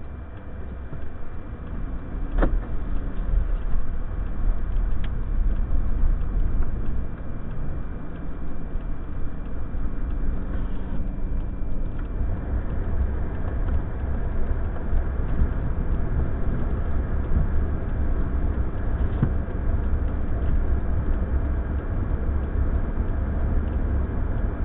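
A car running, a steady low rumble, with one sharp click about two and a half seconds in, after which the rumble grows louder.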